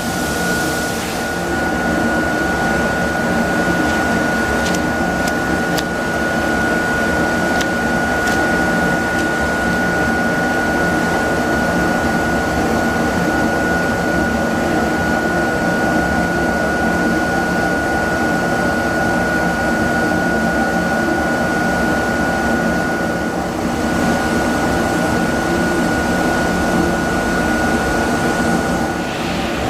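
KIMLA CNC blade-cutting machine running as it cuts 40 mm foam: a steady high whine over a dense, even mechanical hum.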